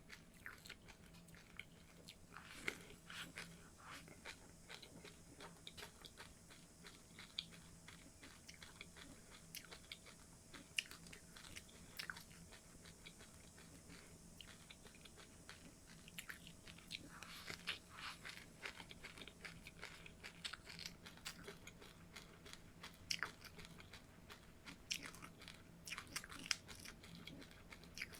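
Close-up chewing and crunching of seeds, a steady run of small irregular crackles and clicks.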